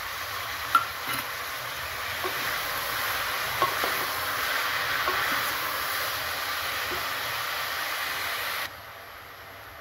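Chopped tomatoes sizzling in hot oil in an open pressure cooker, stirred with a wooden spoon that knocks lightly against the pot a few times. The sizzle cuts off suddenly near the end.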